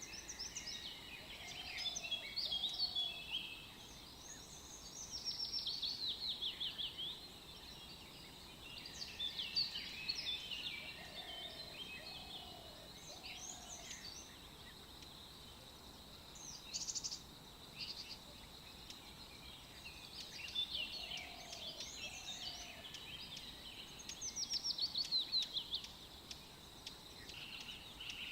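Several birds singing: chirps and quick descending trills repeating every few seconds, with soft low two- and three-note calls in between over a faint steady hiss.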